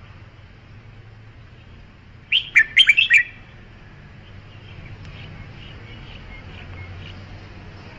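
Red-whiskered bulbul singing one short, loud phrase of quick warbled notes about two seconds in, followed by fainter, softer notes.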